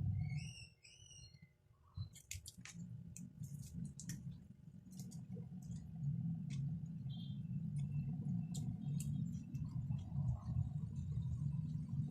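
Close-up eating noises: chewing with many small wet mouth clicks, over a steady low hum. A few short chirps come near the start.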